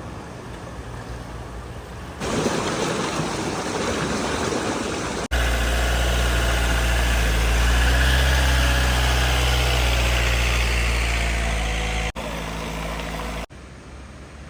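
Vehicle engines running as cars drive through floodwater, in several short clips cut together. The loudest stretch, from about five to twelve seconds in, is a deep, steady engine hum under a wash of water noise.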